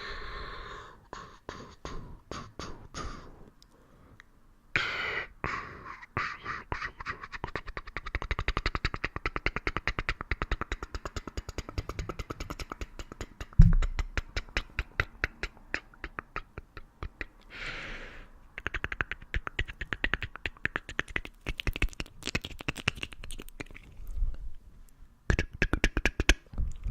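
Close-miked ASMR trigger sounds: fast runs of crisp clicks and pops, about ten a second, with a short breathy rush of noise twice and one heavier thump about halfway through.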